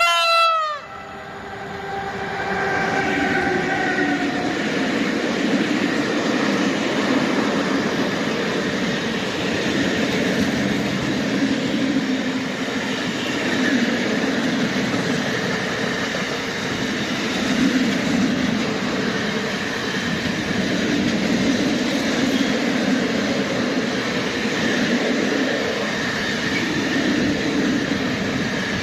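ET22 electric locomotive sounding a short horn blast that drops in pitch as it passes, then its motor hum falling away as a long train of wagons rumbles and clatters by at speed.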